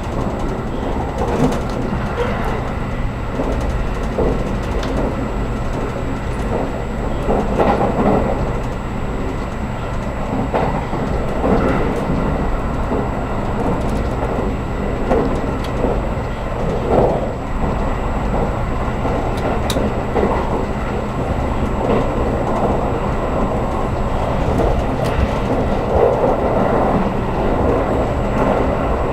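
Cabin noise inside a JR Kyushu 783 series electric limited express train running at speed: a steady rumble of wheels on rail, with louder swells of rattle every few seconds.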